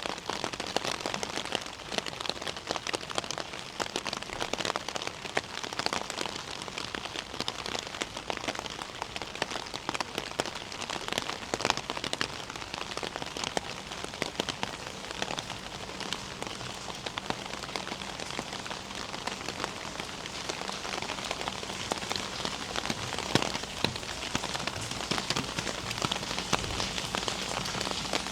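Steady rain falling, with many small drop hits close by.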